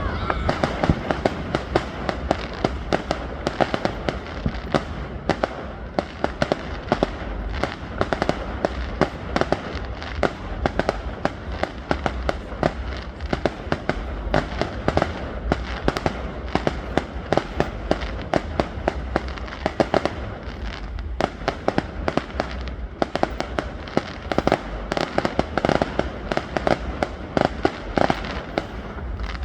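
Fireworks going off continuously: a dense run of sharp crackling bangs, many a second, some louder than others, over a steady low rumble.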